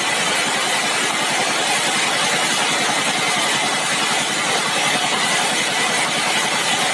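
Sawmill machinery running steadily: a dense, even noise that sits mostly in the middle and high pitches, with a faint steady whine.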